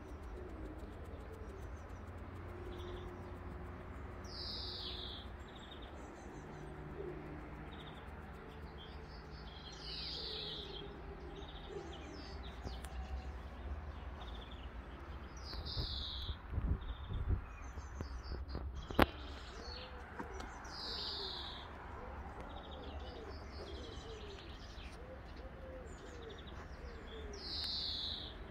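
Garden birdsong: a songbird repeats a short, high, falling call about every five seconds, and a pigeon coos in the second half. A few soft thumps come just past the middle and a single sharp click a little later, over a steady low rumble.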